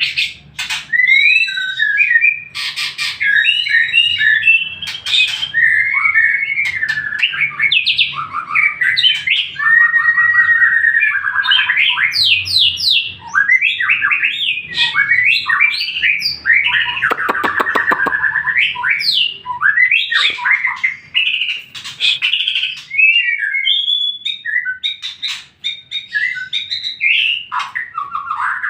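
White-rumped shama (murai batu) singing a long, varied song of loud whistled phrases, rapid trills and harsh notes, with a buzzing rattle about midway. It is the kind of full song played as a lure to set other shamas singing in reply.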